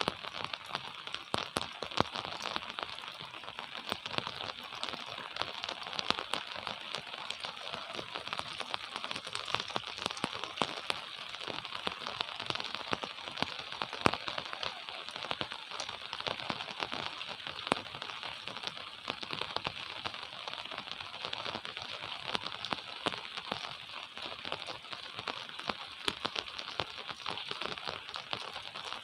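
Gentle rain falling steadily, a dense hiss with many close drops ticking and crackling on surfaces.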